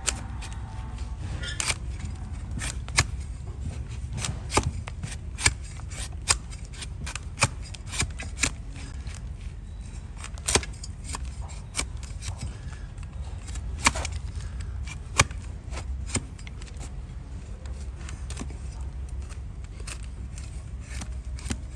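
A hoof knife cutting and scraping an overgrown donkey hoof: irregular, crisp cuts and scrapes, about one a second, over a steady low rumble.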